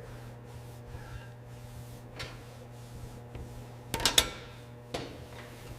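A steady low hum with a few short, sharp clicks or knocks; the loudest is a quick pair about four seconds in.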